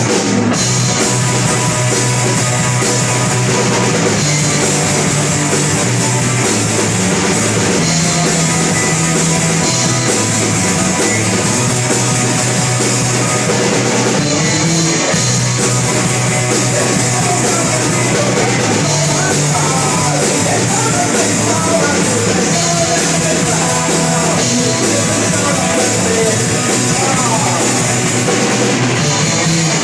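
Loud rock music from a band, with guitar, bass and drum kit playing steadily without a break.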